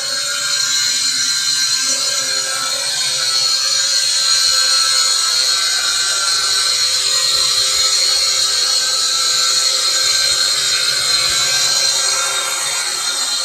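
WLtoys Q222 toy quadcopter's motors and propellers whining steadily in flight, a high buzz that swells a little in the middle.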